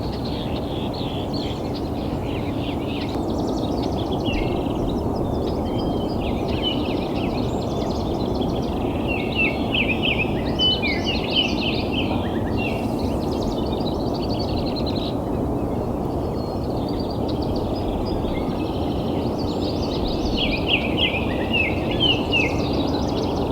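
Dawn chorus: several songbirds singing and chirping in quick, overlapping phrases, over a steady low rumble of background noise.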